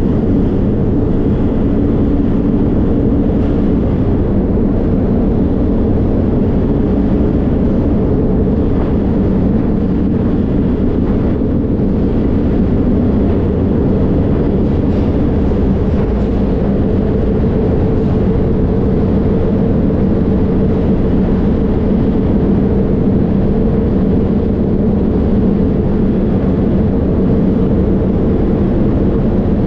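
Steady rumble and rattle of a moving freight train, heard from on board one of its cars, with no pause or change in level.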